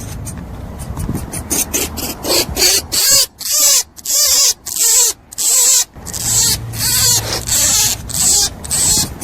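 Rabbit making a quick series of short hissy squeaks, about two a second.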